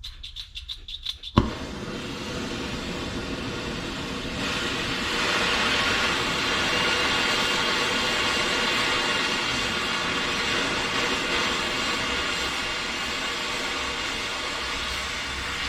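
Gas torch being lit for heating steel parts to case harden them: a run of quick clicks, a sharp pop as the flame catches about a second and a half in, then the flame's steady hiss, which grows louder about four seconds later as it is turned up.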